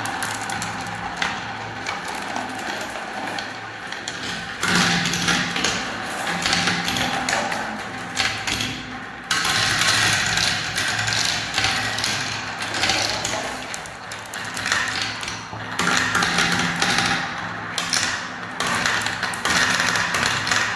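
Many small balls rolling and clattering down plastic spiral marble-run tracks: a constant rattle of clicks over a rolling rumble, which shifts abruptly a few times.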